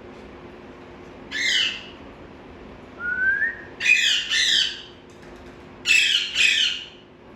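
Pet parakeet squawking. A single harsh call comes about a second in, then a short rising whistle, then two quick pairs of harsh squawks.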